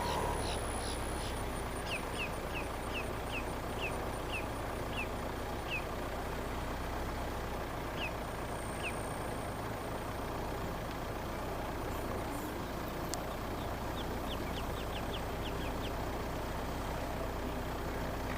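Steady noise of a car moving slowly, with a bird calling over it: runs of short, high, downward-sliding chirp notes, about two a second, in several bursts.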